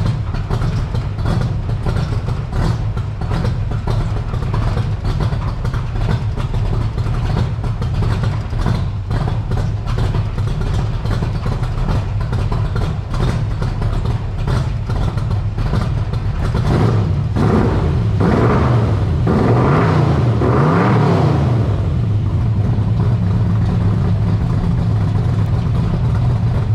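Cammed V8-style engine of a 1951 International rat rod running with a fast pulsing exhaust beat. It is revved up and down a few times about two-thirds of the way in, then settles back to a steady run.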